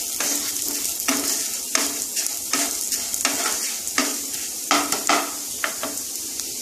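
Moong dal sizzling in hot oil in a non-stick kadai, stirred with a wooden spatula that scrapes across the pan about once a second; the stirring stops near the end while the sizzle goes on.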